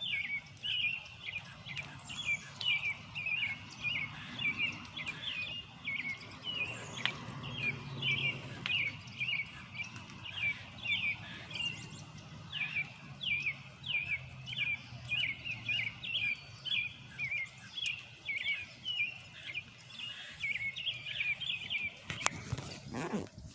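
A small bird chirping over and over, short sharp notes about two to three a second, with a faint low rumble underneath for a while and some rustling and clicks near the end.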